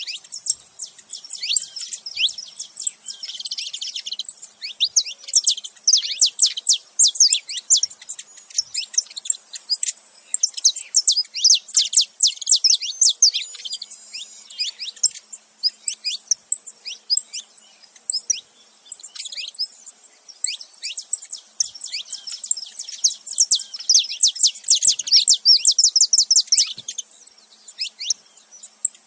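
Saffron finches singing: a fast, nearly continuous run of high, sharply falling chirps, with a few brief lulls.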